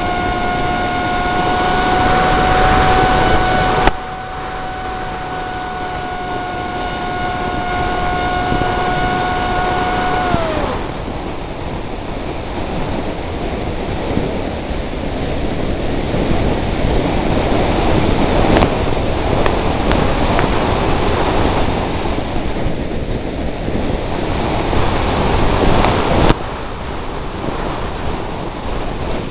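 Electric motor and propeller of a Dynam Hawksky RC plane whining at a steady pitch, then dropping in pitch and cutting out about ten seconds in as it powers down. Strong wind buffets the microphone throughout, with a few sharp clicks.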